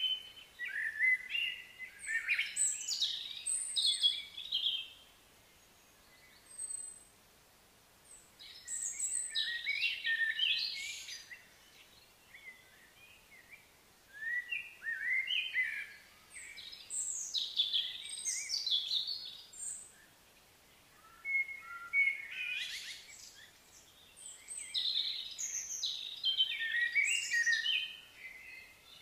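Songbird singing in four bouts of quick, chirping notes, each a few seconds long, with short quiet gaps between.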